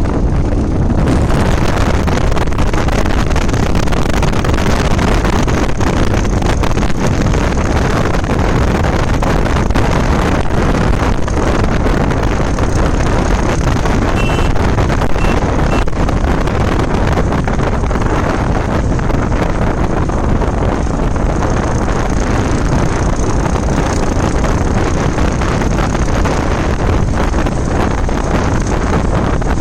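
Loud, steady wind rush on the microphone of a moving motorcycle, with the rumble of the bike and road underneath.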